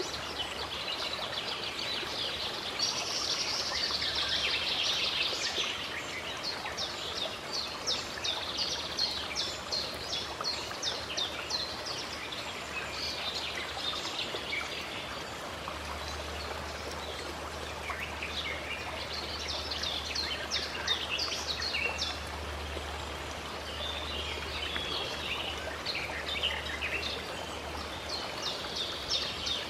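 Nature ambience: a stream running steadily, with small birds chirping and singing in quick repeated notes that come and go.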